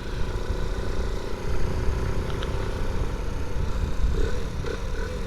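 Honda C90's small single-cylinder four-stroke engine running steadily under way, with wind rumbling over the microphone.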